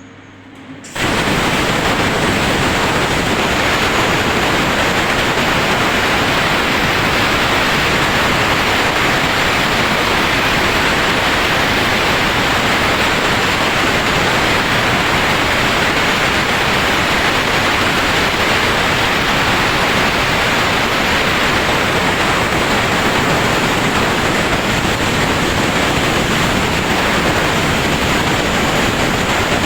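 CNC machine running: a loud, steady hiss with no clear tone or rhythm, switching on abruptly about a second in.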